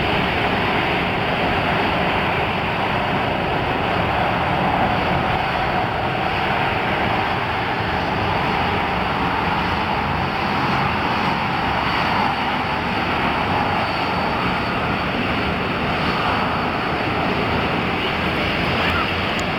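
Boeing 777's twin turbofan jet engines during landing: a steady jet noise at an even level, with a tone a little below 1 kHz that falls slightly in pitch.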